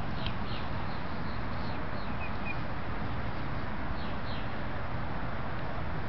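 A bird giving a run of short, high chirps, each falling in pitch, through the first two and a half seconds, then two more about four seconds in, over a steady rushing background noise.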